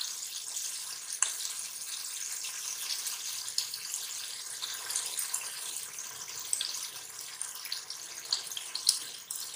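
Beef and masala sizzling in hot oil in a pressure cooker pot, a steady hiss with scattered small pops and crackles, during the bhunai stage when the cooked meat is fried down in oil.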